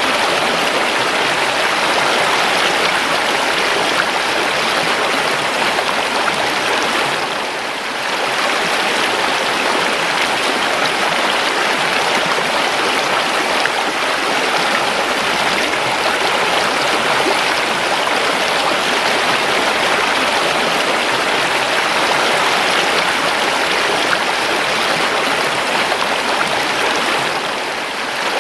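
River water flowing steadily, a continuous dense rush of running water. The level dips briefly about seven and a half seconds in and again just before the end.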